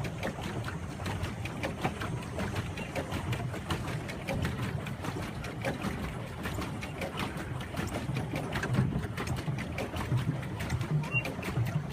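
Paddle boat on the water: irregular splashing and knocking over a steady low rumble.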